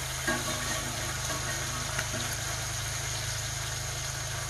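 Potatoes and thin-sliced pork frying in skillets, one of them cast iron: a steady sizzle over a low steady hum, with a light tap of a utensil about two seconds in.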